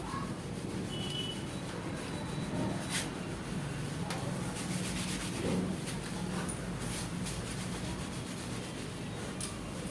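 Thin cotton gamcha towel rubbing wet long hair: a steady soft scrubbing with a few faint clicks.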